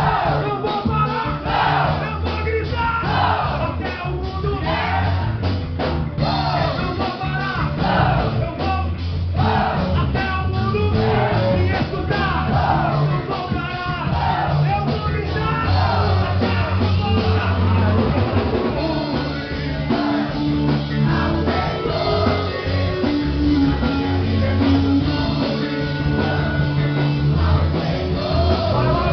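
Live worship rock band playing with singing voices, a steady bass line underneath.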